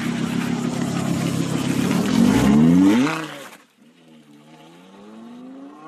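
A car engine revving hard, its pitch climbing steeply, cut off abruptly about three and a half seconds in. It is followed by an Audi R8 sports car's engine accelerating more faintly, its pitch rising steadily.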